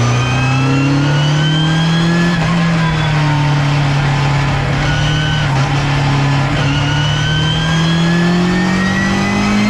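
Ginetta G40 GT5 race car's 1.8-litre Ford four-cylinder engine under load. The pitch climbs, drops a little just over two seconds in as a gear changes, eases through the middle, then climbs steadily again toward the end, over road and wind noise.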